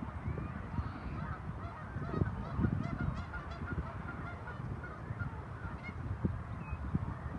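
A flock of waterbirds on a lake calling continuously, many short overlapping calls at once, over a steady low rumble.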